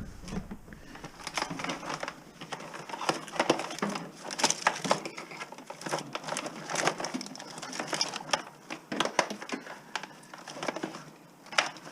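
Insulated copper wire being run through a wire stripper: an uneven run of small clicks, rattles and crackling of plastic insulation. The feed is not going smoothly; the copper is sluggish.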